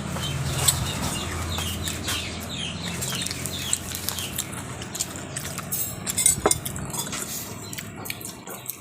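Chickens clucking: a run of short high calls over the first few seconds, over a steady low hum, with a few sharp clicks.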